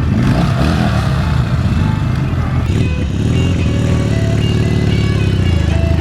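A motorcycle engine running close by, with music coming up over it about halfway through.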